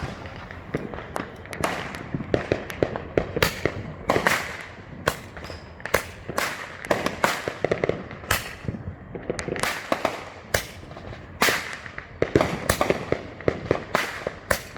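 Consumer fireworks going off in a dense, irregular barrage: many sharp bangs and pops a second, overlapping one another.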